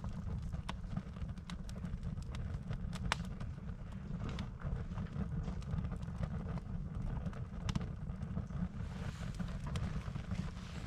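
Burning firewood in a campfire crackling, with irregular sharp pops and snaps, over a steady low rumble.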